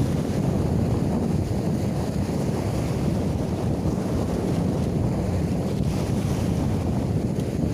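Strong wind buffeting the microphone in a steady low rumble, with sea waves surging underneath.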